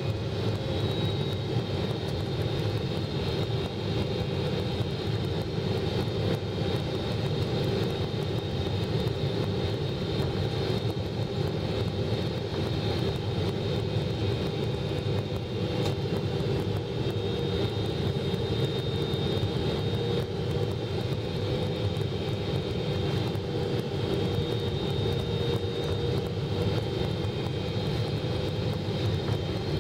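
Steady jet-engine and airflow noise of a Boeing 777-300ER heard from inside the cabin, a constant drone with a steady high whine over it.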